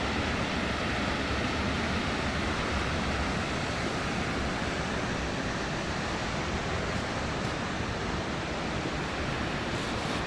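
A large waterfall's water falling and crashing, heard close by as a steady, even rush of noise.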